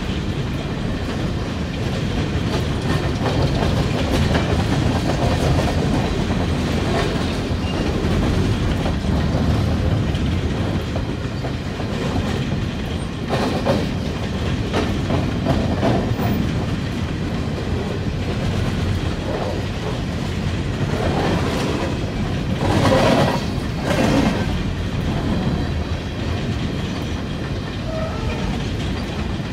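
Freight train of open-top hopper cars rolling past at close range: a steady rumble with wheels clattering over the rail joints. A couple of louder metallic clatters come about three-quarters of the way through.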